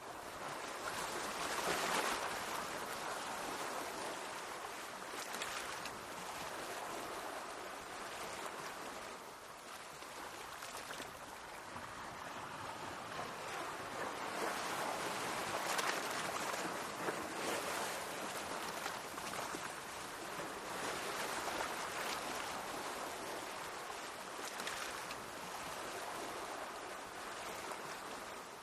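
Mediterranean sea waves washing in, a continuous rushing wash that swells and eases every few seconds.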